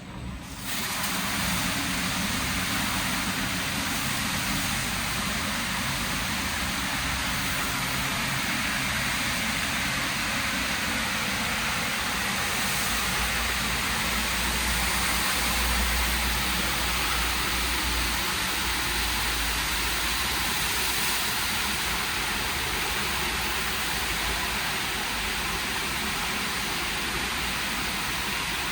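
WashTec SoftCare² Takt rollover car wash gantry running, with a steady hiss of water spraying onto the car that starts suddenly about a second in. A low rumble from the machinery swells in the middle.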